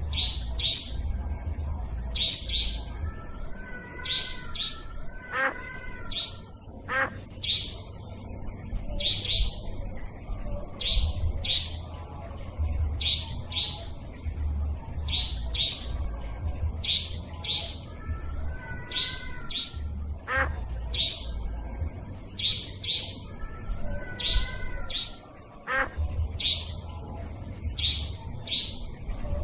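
Nightjar calls from a bird-lure recording: sharp, high notes in quick pairs, repeated about once a second without a break. Softer warbling calls from other birds come in a few times beneath them, and a low rumble runs underneath.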